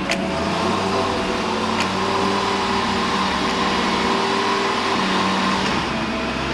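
A steady mechanical hum with a few held tones: a machine running continuously.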